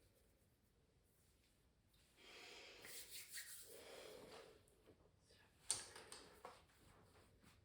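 A scratchy stroke rubbing across canvas for about two and a half seconds, then a sharp tap about six seconds in and a few faint ticks.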